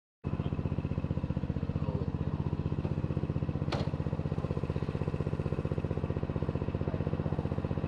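Small tractor engine running steadily with an even, quick firing beat. A single sharp click about halfway through.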